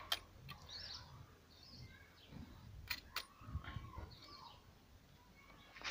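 Faint outdoor ambience of birds chirping in the background, with a few sharp clicks scattered through it.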